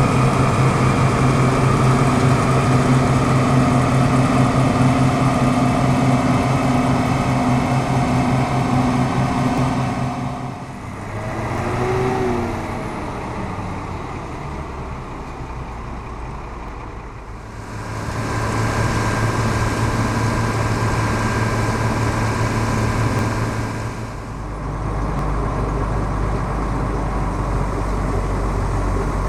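Deutz-Fahr M36.10 combine harvester working: its diesel engine and threshing machinery run with a steady hum. The sound drops away for several seconds partway through, with a brief rise and fall in pitch, then comes back loud and shifts again near the end.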